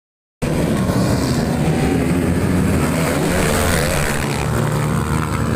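Motocross motorcycle engines running at high revs, their pitch wavering up and down as the throttle is worked.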